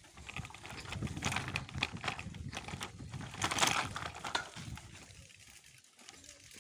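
Bicycle riding over a rough forest track: irregular crackling, clicking and rattling from the tyres and frame, busiest in the middle and thinning out near the end.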